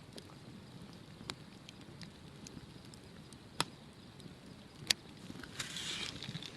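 Wood campfire crackling faintly, with a few sharp single pops, the loudest about three and a half and five seconds in, and a short hiss near the end.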